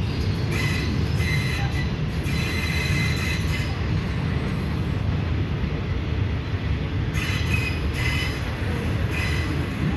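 Passenger carriage of an express train running on the rails, heard at an open window: a steady low rumble of wheels on track. High metallic wheel squeals come and go in short runs, several in the first few seconds and several more near the end.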